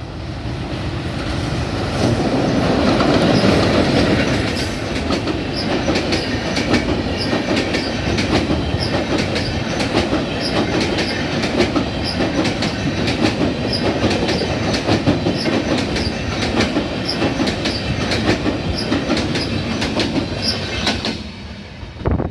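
Mitali Express passenger train passing, its coach wheels clattering over rail joints in a fast, steady run of clacks with brief high squeals. The sound swells over the first few seconds and falls away suddenly about 21 seconds in, as the last coach goes by.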